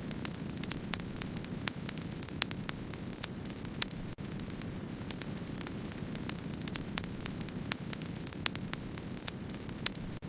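Wood-burning campfire crackling: a steady low rushing of the flames with many sharp, irregular crackles and pops. The sound drops out for an instant about four seconds in.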